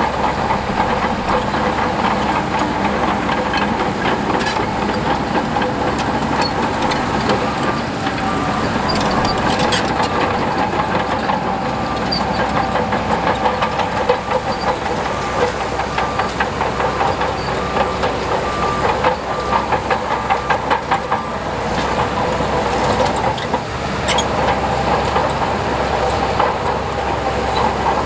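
Heavy diesel earthmoving machinery running steadily under load, with scattered metallic clanks. A reversing alarm beeps for a stretch in the middle.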